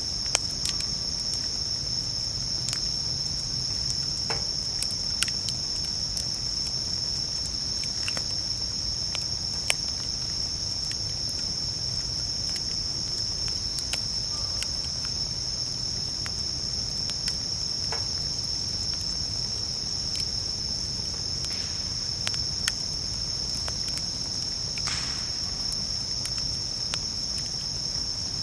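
Japanese bell crickets (suzumushi) singing in a steady high-pitched chorus, with scattered sharp pops and crackles from a wood campfire.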